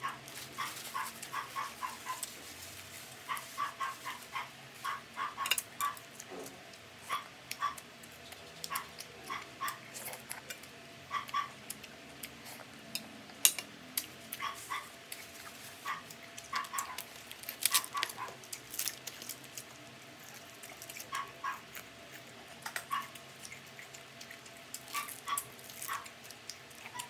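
Close-miked eating sounds from crispy fried duck being chewed: irregular crunches, chewing and mouth clicks, sometimes several a second, with a few sharper crunches around the middle.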